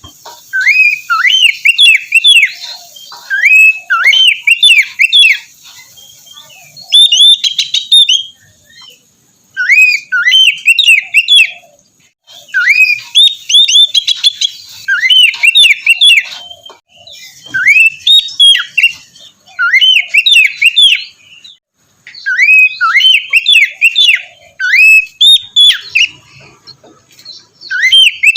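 Oriental magpie-robin (kacer) singing loud phrases of quick, rising-then-falling whistled notes, several a second, broken by short pauses.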